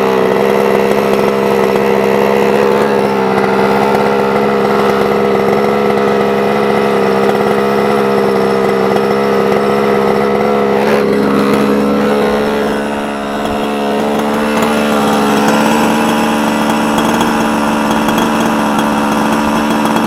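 Two-stroke gas engine of a 1/5-scale Losi 5ive-T RC truck idling steadily, with a brief dip in level about thirteen seconds in.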